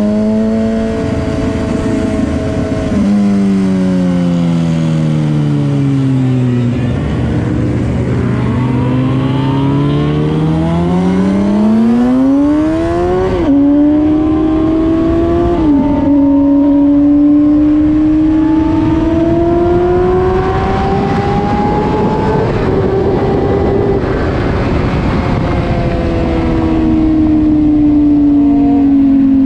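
Motorcycle engine running while riding: its pitch falls as it slows, climbs as it accelerates, drops sharply at gear changes about halfway through, then rises slowly and eases off again near the end.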